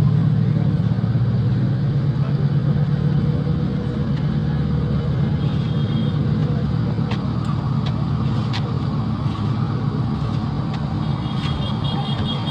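Road traffic: a vehicle engine rumbling close by, easing off slightly after a few seconds, with a few sharp clicks.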